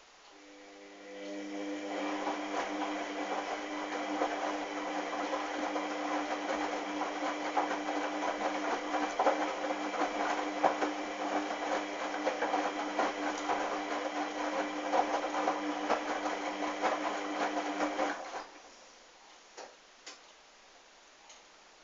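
Hoover washing machine's motor turning the drum through a wash cycle, a steady motor hum over the sloshing of wet, sudsy towels. It builds up over the first couple of seconds and cuts off suddenly near the end, followed by a few clicks.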